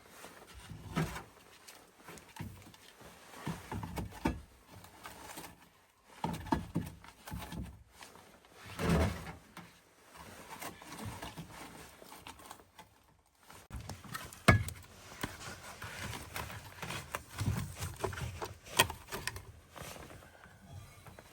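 Scattered knocks, thuds and sharp clicks of things being handled, the loudest thud about nine seconds in and sharp clicks near the middle and toward the end.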